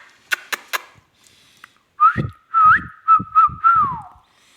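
Indian ringneck parrot whistling: a string of short whistled notes with quick upward flicks, ending in a falling glide, after a few sharp clicks near the start.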